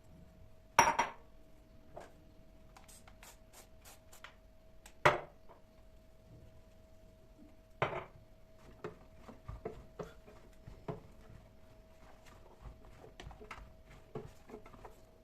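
Kitchen handling sounds: a few sharp knocks and clatters of dishes and utensils, loudest about a second in, about five seconds in and about eight seconds in, with lighter clicks between them. A faint steady hum runs underneath.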